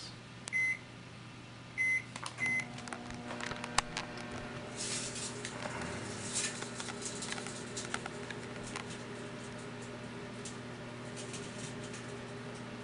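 Microwave oven keypad beeping three times, then the oven starting up with a steady hum. Over the hum, a few seconds of crackling and snapping: the CD's metal layer sparking inside the oven.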